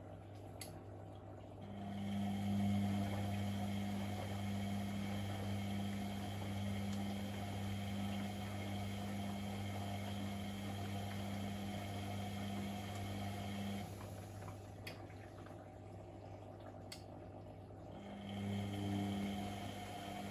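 Privileg Sensation 952 S top-loading washing machine with a pump running, a steady hum. It starts about two seconds in, cuts out for about four seconds after the middle with a couple of faint clicks, and starts up again near the end.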